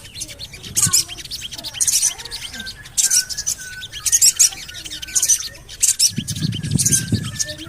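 Recorded sogon calls: clusters of rapid, very high-pitched chirps, about once a second, with a thinner repeated note beneath them. A low rumble sounds for about a second near the end.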